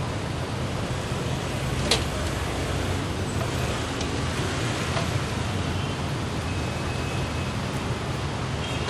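Datsun GO+ three-cylinder engine idling steadily, with a single sharp click about two seconds in.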